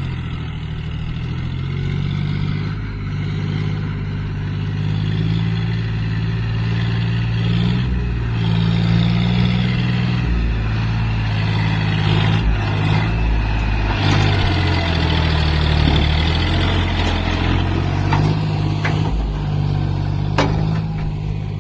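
John Deere tractor's diesel engine running steadily while pulling a trolley, a little louder partway through, with a couple of sharp clicks near the end.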